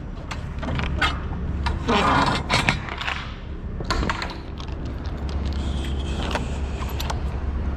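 A steady low engine hum, typical of a semi truck idling, under scattered clicks, knocks and scraping rubs from close handling.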